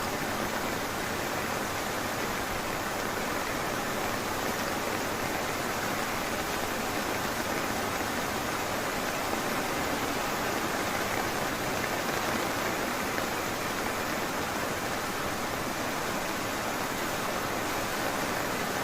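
Heavy rain falling on forest, a steady, even hiss with no distinct drops or breaks.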